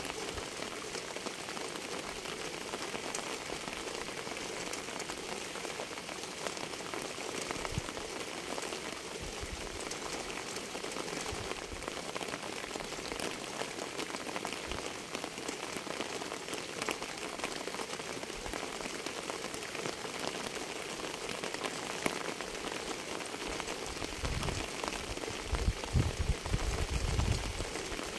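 Steady rain falling, a dense hiss of many small drop patters. A few low thuds rise under it in the last few seconds.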